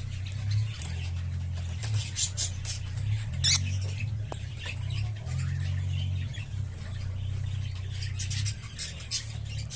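Opaline lovebirds giving clusters of short, high chirps and squeaks, the loudest about three and a half seconds in, over a steady low hum.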